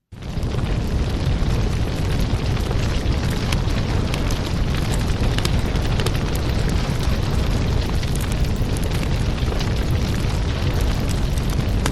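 Wood fire in a fireplace crackling, with a steady low rumble under many small sharp snaps. The sound drops out for an instant at the very start and fades straight back in.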